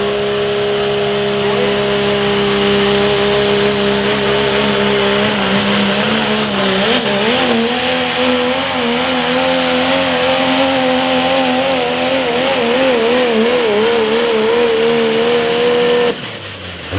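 Pro stock diesel pickup truck engine at full throttle under load pulling the sled, holding a steady high pitch, then wavering up and down in pitch for the rest of the run. It cuts off suddenly near the end as the run ends.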